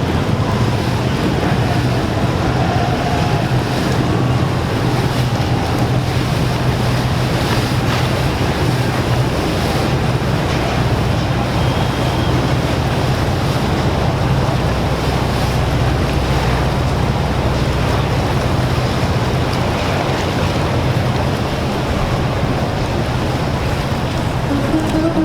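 Boat engines droning steadily with a low hum over rushing water, with wind buffeting the microphone.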